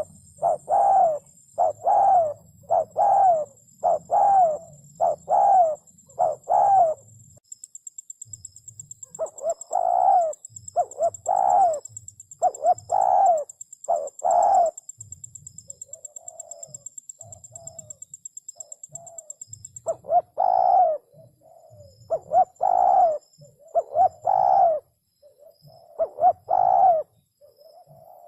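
Spotted dove cooing: a run of short, low, hooting notes in quick series, pausing about seven seconds in, then resuming, softer for a few seconds past the middle and loud again near the end.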